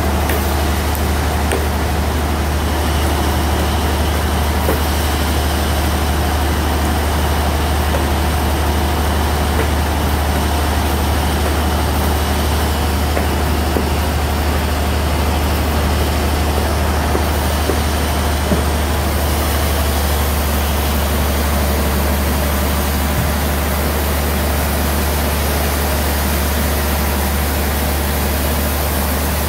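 Sawmill bandsaw machinery running steadily with a deep constant hum, as a large log is sawn into boards; the higher hiss shifts slightly about two-thirds of the way through.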